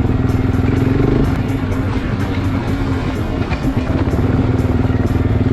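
Motorcycle engine running steadily, with background music with a steady beat over it.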